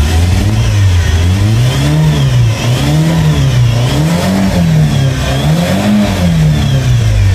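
Fiat Palio Weekend's engine revved up and down about four times in smooth swells, heard from inside the cabin. The engine is running right again after its repair.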